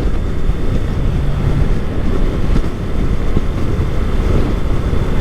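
Steady low rumble and rush of wind buffeting a helmet chin-mounted camera's microphone while riding a motorcycle at speed, with the bike's running underneath.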